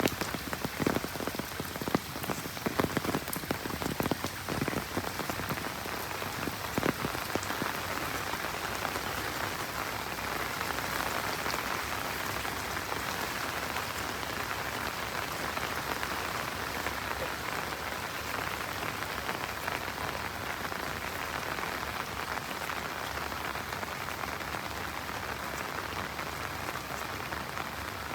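Steady rain falling, an even hiss. For the first several seconds large drops strike close by in quick irregular taps, then the rain settles into a smooth, even patter.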